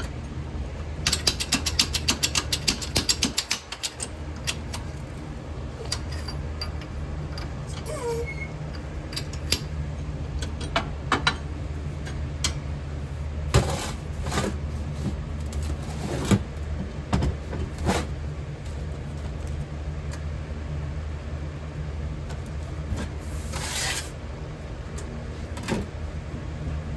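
Steady low electrical hum. Over it comes a quick run of tapping clicks about a second in, then scattered knocks and clicks and a brief hiss near the end, the sounds of hand work on a mold at the bench.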